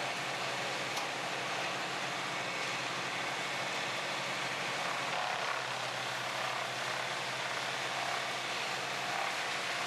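Large whole-tree wood chipper running: a steady engine drone under an even rushing noise.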